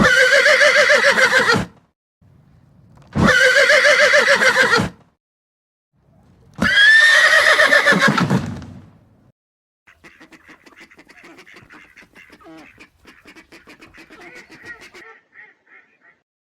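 Three loud quavering animal calls, each about a second and a half long, then from about ten seconds in a much quieter run of rapid chattering calls.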